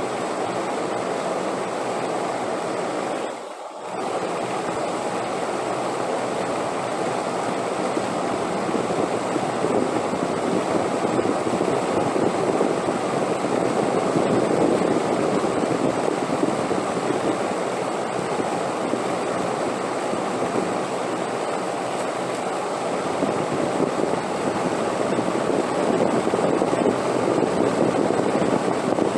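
Wind blowing steadily, swelling a little louder in the middle and again near the end, with a brief drop in level about three and a half seconds in.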